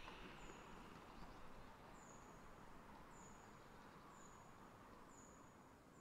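Faint winter forest ambience fading out, with a small bird repeating a thin, very high call about once a second.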